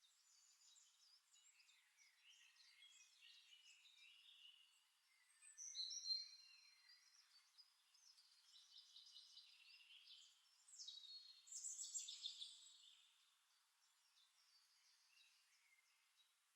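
Faint birdsong: several birds chirping and trilling, with louder phrases about six seconds in and again around eleven to thirteen seconds.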